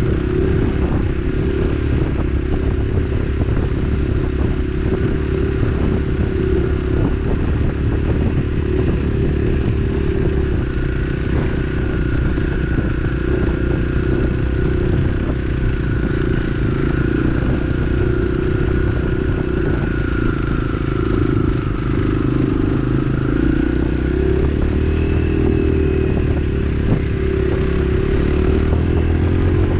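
Dirt bike engine running steadily while being ridden, with a faint whine whose pitch drifts slightly, dipping and rising again a little past the middle.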